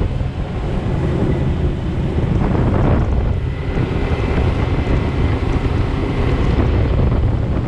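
Steady wind rumbling on the microphone over the sound of water.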